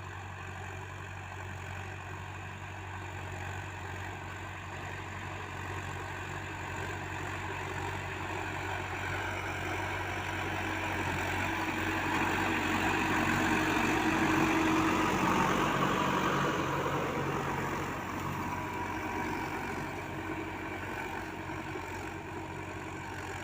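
ACE 6565 V2 tractor's diesel engine running steadily. It grows louder about halfway through and eases back again near the end.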